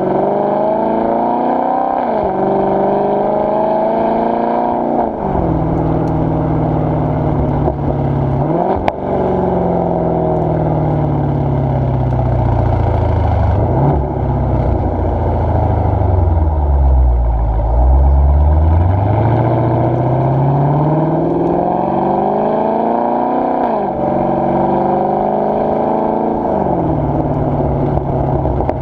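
Exhaust of a 2017 Dodge Challenger R/T with a 392 HEMI V8, mid mufflers deleted and resonators kept, pulling through the gears: the pitch climbs and drops sharply at each upshift. About nine seconds in the revs fall in a long, slow glide as the car slows, then it accelerates through several more upshifts.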